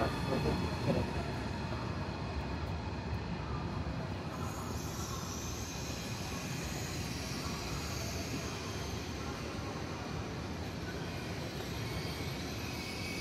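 High-speed electric train rolling slowly along the platform, a steady rumbling hiss of wheels and air, with a faint high whine joining about four seconds in.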